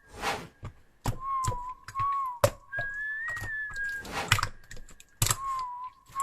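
Slime being pressed and poked, making sharp clicks, pops and a few longer crackly squishes, over a faint repeating whistled tune.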